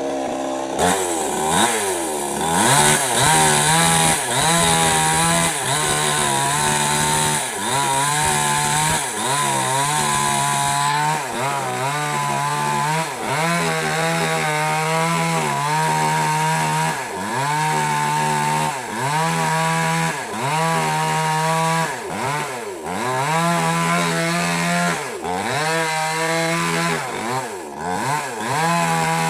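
Small petrol mini chainsaw cutting wood, its engine pitch repeatedly dropping and climbing back about once a second. There is an extra high hiss through the first third.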